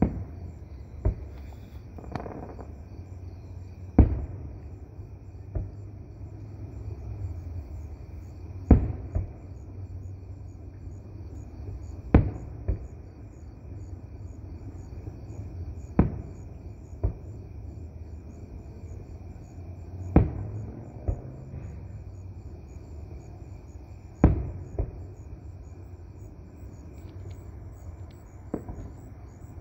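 Aerial firework shells bursting with sharp booms about every four seconds, with softer launch thumps between them. Insects chirp steadily underneath.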